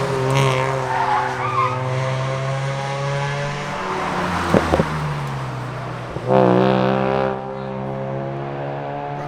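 Car engines running and revving on a mountain road, with engine pitch sliding down and up. There are two sharp pops about four and a half seconds in, then a louder burst as an engine revs up about six seconds in.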